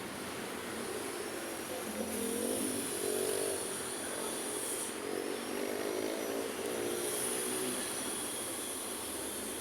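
Road traffic at a city street bend: a steady rush of passing vehicles. Engines pull past with their pitch rising as they accelerate, about two seconds in and again around five seconds in.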